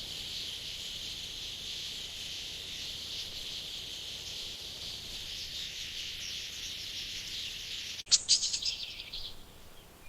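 A flock of canaries chirping densely and continuously. About eight seconds in, the sound cuts to a louder burst of rapid chirps, which fades away soon after.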